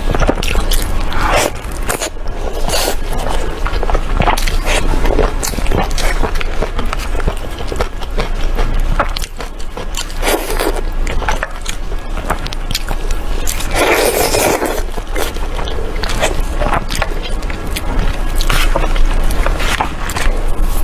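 Close-miked eating sounds: food being bitten and chewed, with many short crunchy clicks and smacks.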